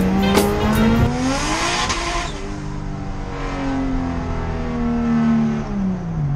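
Lexus SC300's inline-six engine heard from inside the cabin under way. It rises in pitch over the first couple of seconds, eases off slowly, then drops sharply near the end with an upshift.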